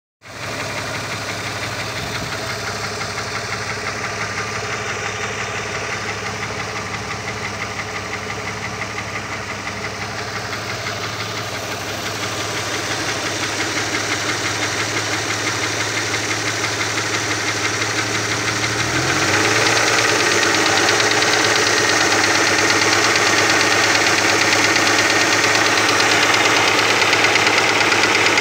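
Opel Omega B 2.5 V6 engine running with a fast, steady knock, which the owner puts down to the exhaust camshaft on the second cylinder head. It grows louder about twelve seconds in and steps up again about two-thirds of the way through.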